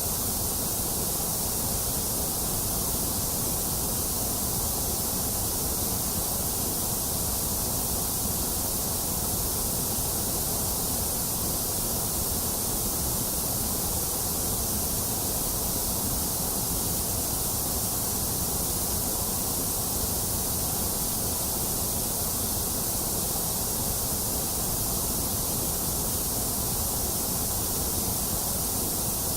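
Steady generated white noise: an even, unchanging hiss, brightest in its highest range.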